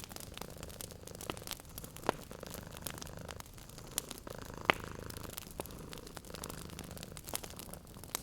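A cat purring steadily, its low rumble swelling and easing with each breath, under a wood fire crackling with scattered sharp pops; the loudest pop comes just before the middle.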